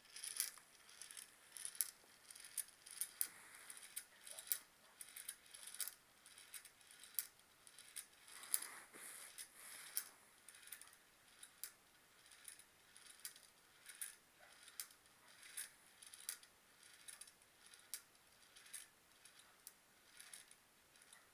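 Stirling engine running slowly, its mechanism giving a faint, regular metallic click about one and a half times a second.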